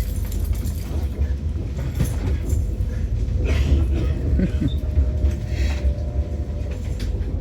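Passenger train rolling over the rails toward a terminal station: a steady low rumble, with a thin steady tone joining about halfway through.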